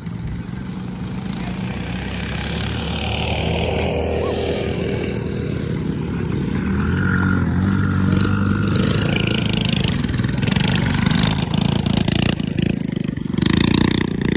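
Mini bike engines running hard in a race, getting louder over the first few seconds as they come closer.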